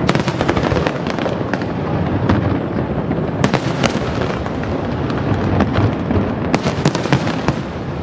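Fireworks display: aerial shells bursting with sharp cracks over a continuous booming rumble, with a quick cluster of bangs about two-thirds of the way through.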